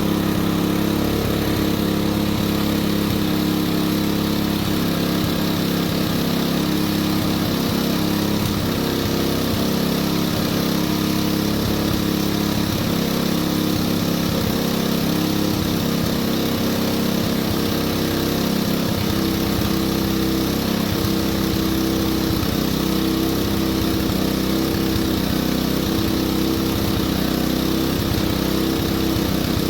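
A small engine or motor running steadily at an even speed, with no change in pitch or loudness.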